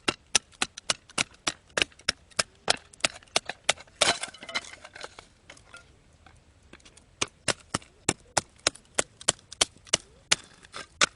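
Batoning firewood: a knife blade being driven through a piece of wood by repeated sharp knocks from a baton, about two to three a second, with a longer splitting crack about four seconds in and a short pause before the knocks start again.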